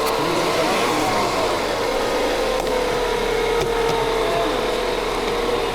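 A vehicle engine idling: a steady running noise with a faint, slightly wavering hum.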